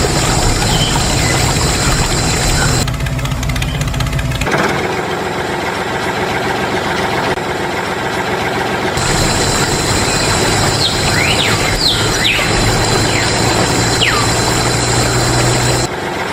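A motor running steadily, cut into several segments that change abruptly, with a few short high chirps a little past the middle.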